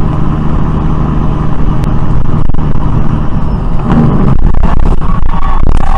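Loud car engine and road noise with a steady low hum, joined by a few sharp knocks in the last couple of seconds.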